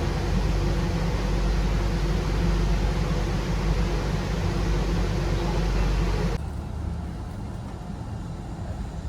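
Wuppertal Schwebebahn suspension railway running: a steady rumble and hiss with a faint steady hum. About six seconds in it cuts abruptly to a quieter, deeper rumble.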